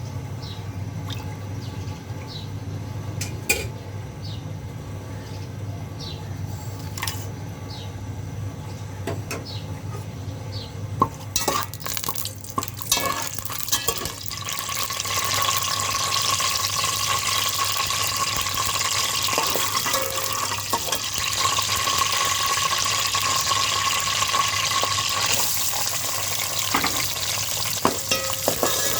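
Cooking in a pot on the stove: a few knocks of a spoon against the pot about halfway through, then food sizzling steadily as it fries in hot oil while being stirred.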